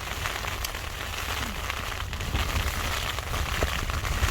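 Strong wind rumbling on the microphone with rain pattering in many small ticks.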